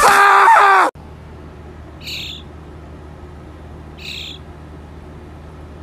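A loud shrill cry over rustling, cut off abruptly about a second in. Then a fledgling songbird held in the hand gives two short high calls, about two seconds apart, over a steady low hum.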